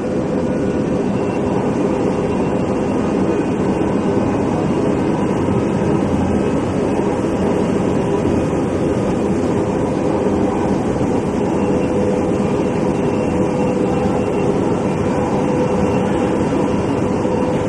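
Steady running noise of an MRT Line 3 train heard from inside the car as it travels along the elevated track, an even rumble with a faint steady tone underneath.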